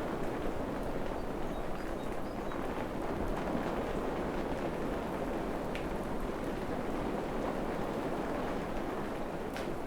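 Steady rain falling on forest foliage, an even hiss with a few louder drops striking close by.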